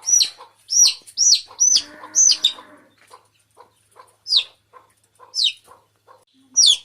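Chicken chicks peeping: loud, high calls that slide down in pitch, a quick run of them over the first few seconds, then a few spaced peeps. A lower, cluck-like call sounds about two seconds in, and soft ticks fill the gaps in the middle.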